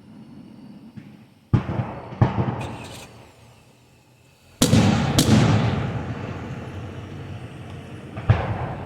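Aerial fireworks shells bursting: several sharp booms, the loudest pair about halfway through followed by a long rolling rumble that dies away, with a light crackle early on and one more boom near the end.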